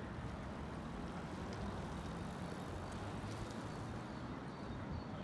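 Steady low rumble of vehicle traffic or an engine with city ambience, even throughout, with a faint steady hum underneath.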